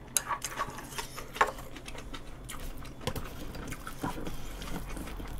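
Someone eating close to the microphone: soft wet chewing of rice mixed with octopus, tripe and shrimp stew, with a few scattered small clicks of a spoon or mouth.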